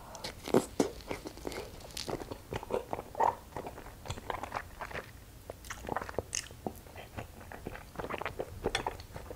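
Close-miked chewing of a soft rice cake coated in chocolate syrup: irregular wet mouth smacks and sticky chewing sounds, several a second.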